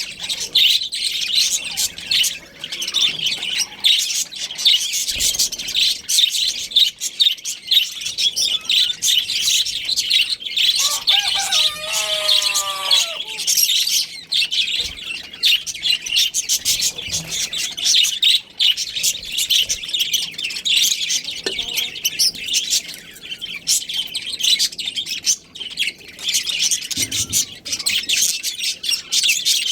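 Budgerigars chirping continuously, a dense high-pitched chatter of many overlapping calls. About twelve seconds in, a lower call of several notes sounds briefly over the chatter.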